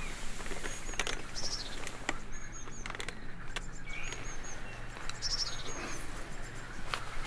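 Songbirds chirping outdoors: short, high, repeated phrases about once a second, with a few sharp ticks scattered through, over a low steady background hum.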